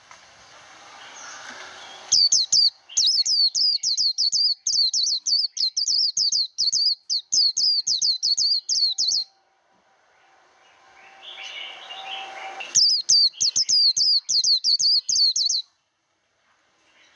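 White-eye (vành khuyên) singing its 'líu' competition song: two long runs of fast, high, repeated chirping notes, each led in by a softer warble that swells in loudness.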